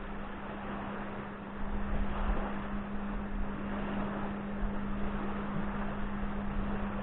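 Wind buffeting the microphone outdoors, gusting stronger about a second and a half in, over a steady low hum.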